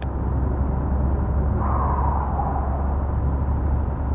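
Steady low rumble of a car driving on a highway, with a faint rushing sound that swells and fades in the middle.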